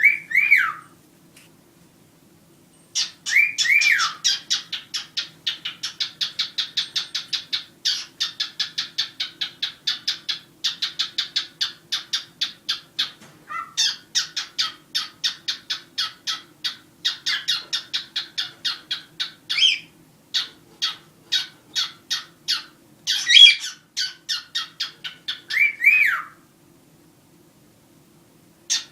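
Pet cockatiels calling: a long run of short, rapidly repeated chirps at about five a second, broken by a few rising-and-falling whistles, the first near the start and the last just before the calls stop.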